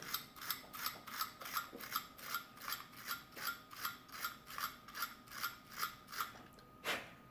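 The small sound mechanism of a vintage talking toy bank ratcheting when worked by hand: even clicks, a little under three a second for about six seconds, then one louder click near the end.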